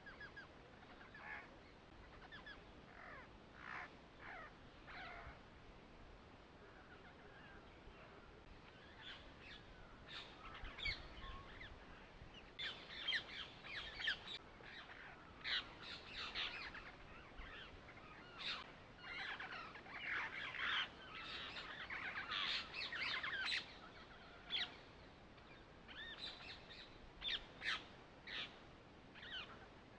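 Small birds chirping: many short, quick calls, scattered at first and coming thick and fast through the middle.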